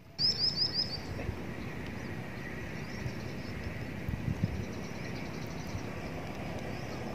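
Outdoor background: a small bird gives four quick high chirps just after the start, then a steady low rumbling noise continues with fainter bird chirps over it.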